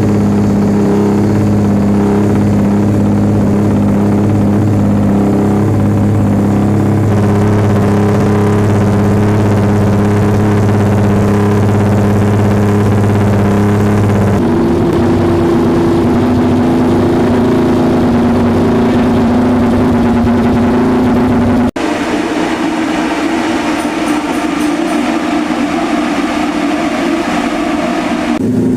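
Race motorcycle engine running at a steady idle. The engine note shifts to a different steady pitch about halfway through, and breaks off abruptly for a moment about three-quarters of the way in before another steady engine note carries on.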